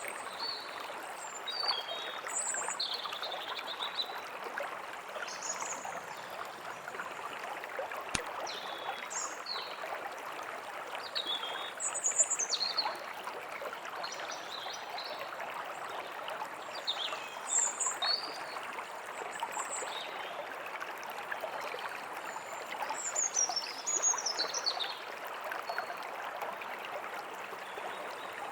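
Forest ambience: a stream running steadily, with songbirds chirping and calling throughout in short high phrases, a few louder bursts of song about twelve, seventeen and twenty-four seconds in.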